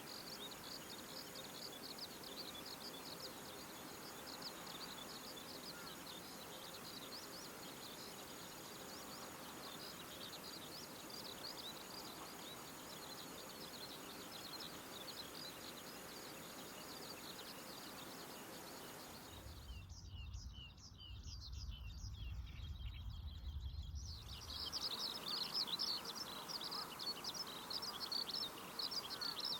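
Outdoor chorus of small birds chirping continuously in many short, high notes. About two-thirds of the way through, the chirping drops away for several seconds under a low rumble, then comes back louder.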